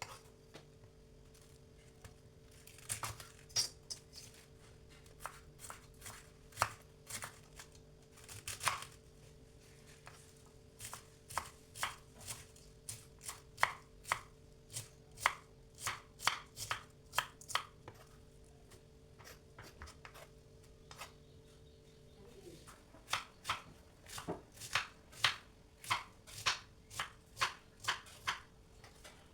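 Knife chopping food on a cutting board: sharp, irregular strikes, some in quick runs of about two a second. A low steady hum underneath stops about three-quarters of the way through.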